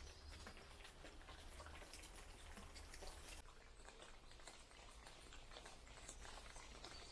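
Near silence: faint room tone with scattered light ticks and a steady low hum.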